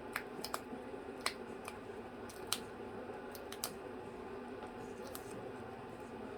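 A series of sharp, irregular clicks and snips, about ten in six seconds, over a steady low hum.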